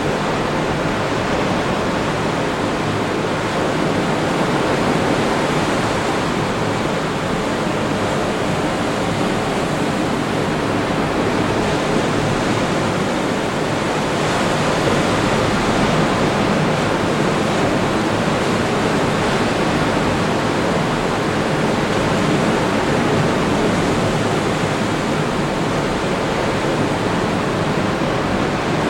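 Atlantic Ocean surf breaking on the beach: a steady wash of noise that swells slightly about halfway through.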